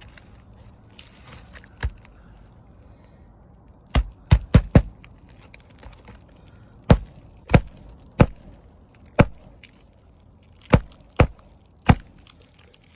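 Hammer blows driving roofing nails through an asphalt shingle, about a dozen sharp strikes. Four come in quick succession about four seconds in, and the rest are spread out at irregular intervals.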